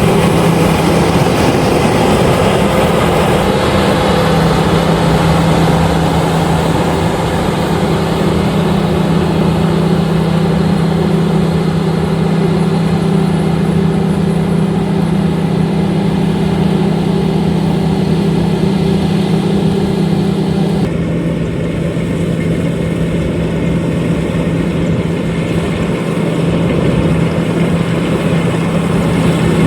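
LOVOL RG130EVO combine harvester running steadily with a loud, constant engine hum. About two-thirds of the way through, its sound turns duller and slightly lower in pitch.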